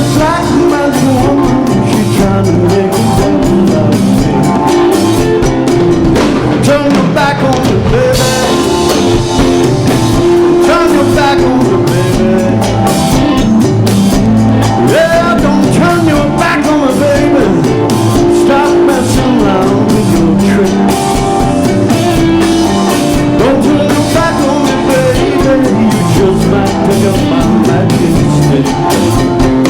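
Live rock band playing: Hammond organ chords, electric guitar and drum kit, with singing.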